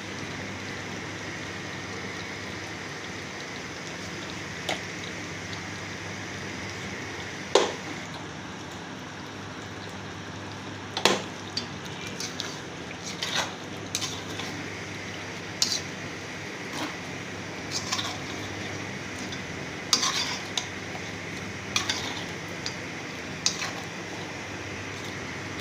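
Metal utensil clinking and scraping against a cooking pot as a chicken karahi is stirred: irregular sharp knocks, starting a few seconds in and coming every second or two, over a steady hiss.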